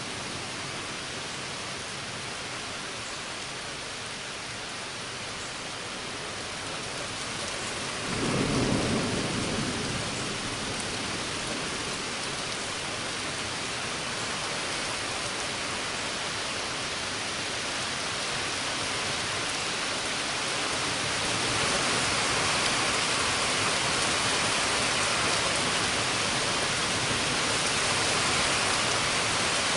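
Steady heavy rain falling in a thunderstorm, with a short low rumble of thunder about 8 seconds in. The rain grows heavier from about two-thirds of the way through.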